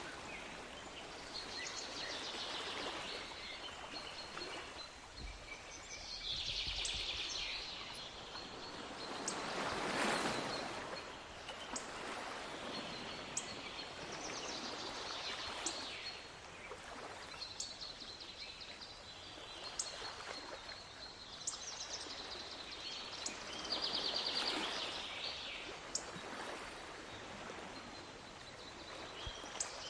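Sea waves washing in and out in slow swells, the largest about ten seconds in, with small birds chirping and trilling over them throughout.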